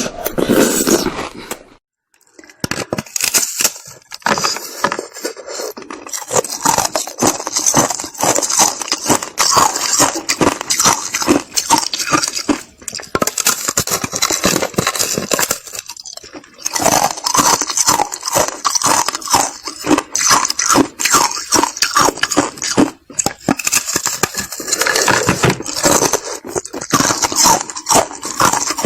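Ice being bitten and chewed close to the microphone: a dense, continuous crunching and crackling, with a brief pause about two seconds in.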